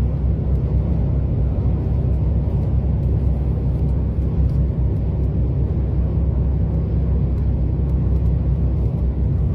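Steady low vehicle rumble, even throughout.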